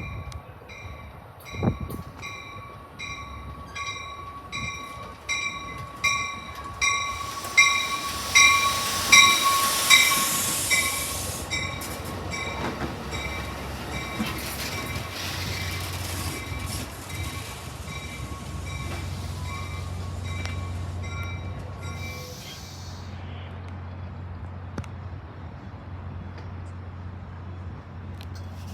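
Train arriving with its bell ringing in a steady, repeated ding, about one and a half strokes a second. A loud hiss swells and fades in the middle. The bell stops a little after twenty seconds, leaving a steady low engine hum.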